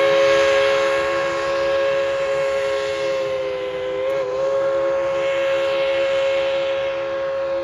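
Steam whistle of Tweetsie Railroad No. 190, a Baldwin 4-6-0 steam locomotive, sounding one long, loud held blast of several notes at once, with a brief waver in pitch about four seconds in.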